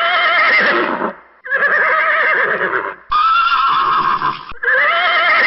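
Horse whinnying four times in a row, each a wavering, quavering call about a second long.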